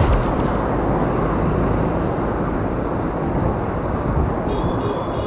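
Steady wind and street noise picked up by a bike-mounted action camera while cycling along a city street, after a music track cuts off right at the start.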